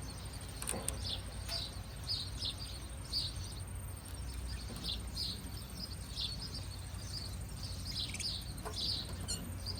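Birds chirping: a steady run of short, high chirps, about two a second, with a few soft clicks among them.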